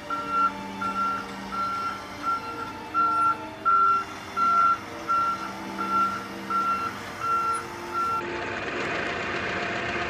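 Vehicle reversing alarm beeping, a single high tone repeated about a dozen times at a bit over one beep a second. It gives way about eight seconds in to an engine running.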